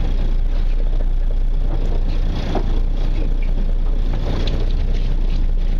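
Steady low rumble of a fishing party boat's engine running, with faint voices in the background.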